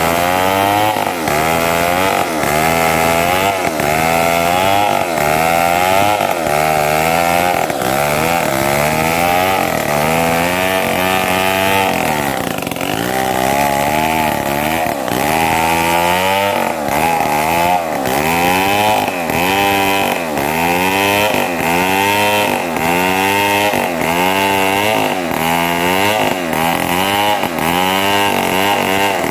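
Two-stroke chainsaw running at high revs while cutting mahogany, its engine note rising and falling about once a second as the chain bites into the wood. Around the middle the pitch sags lower for a moment before recovering.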